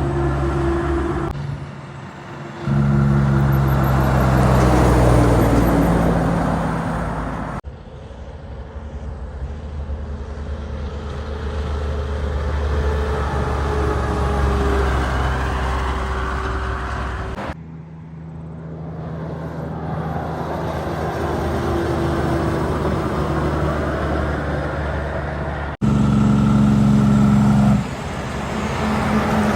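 Heavy diesel trucks driving past, their engines running with a low drone over road noise, in a string of short clips. The sound cuts abruptly to the next truck three times.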